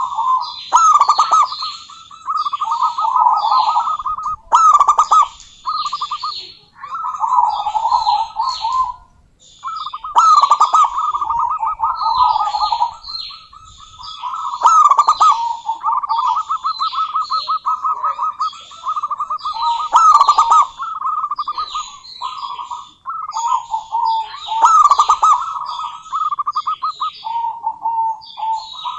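Zebra dove (perkutut) calling: phrases of rapid, pulsed, trilling coos, one after another with short pauses. Short high chirps sound above them throughout.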